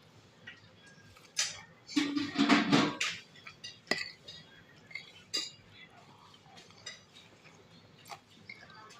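Kitchen utensils and dishes clinking and knocking in short, scattered strikes, with a louder stretch of clattering and scraping about two seconds in.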